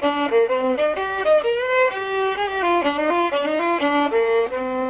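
Solo violin, bowed, playing a quick run of short notes that settles into one long held note near the end.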